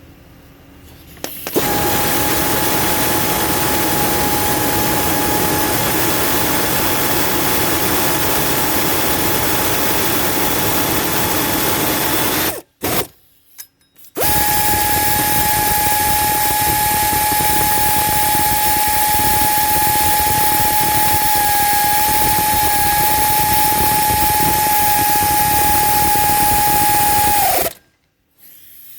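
A handheld power tool running at a steady high speed with a high, even whine, in two long runs separated by a short stop of about a second and a half. At the end of the second run it sags slightly before cutting off.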